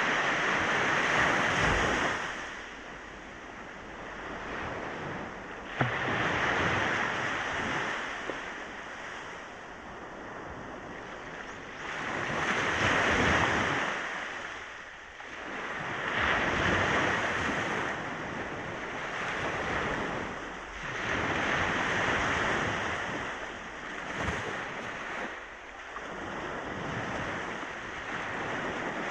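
Ocean waves breaking and washing onto the shore, each surge swelling and fading every four to six seconds.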